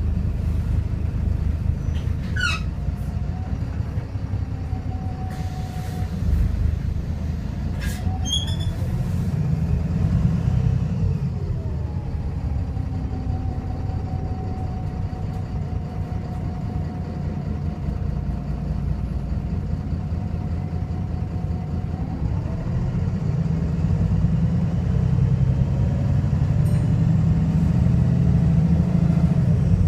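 VDL SB200 bus's diesel engine and Voith automatic gearbox running on the move, a heavy, continuous low rumble with a faint whine that rises, holds steady and falls away again; two short high squeaks come early and about eight seconds in. The bus is misfiring and sounds very unhealthy.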